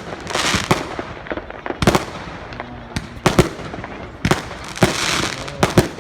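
Fireworks going off: sharp bangs at irregular intervals, some close together, with bursts of crackling hiss between them.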